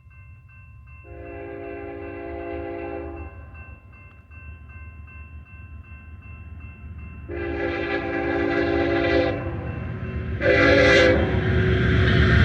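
Diesel locomotive air horn sounding two long blasts and then a short one, the start of the long-long-short-long grade-crossing signal, over the low rumble of an approaching freight train that grows steadily louder.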